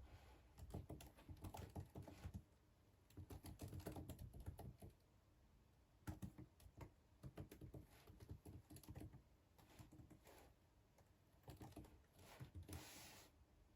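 Quiet typing on a computer keyboard: runs of key clicks a second or two long, separated by short pauses. A brief soft swish comes near the end.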